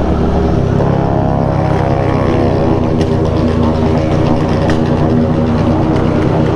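Motorcycle engines running steadily as a group of bikes rides together, several engine notes heard at once.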